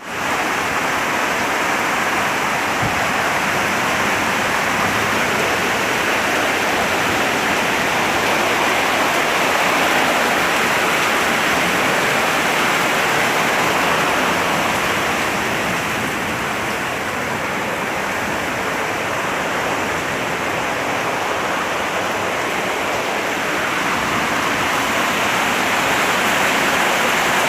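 Water rushing steadily, a constant loud hiss that eases a little past the middle.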